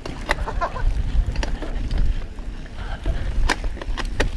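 Wind buffeting a helmet or body camera's microphone as a mountain bike rolls along a dirt trail, with a few sharp clicks and knocks of the bike rattling over bumps.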